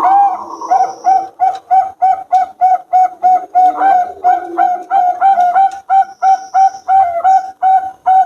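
Zebra doves (perkutut, Bangkok contest line) cooing, a fast run of short, even coos at about three a second, with notes overlapping in places.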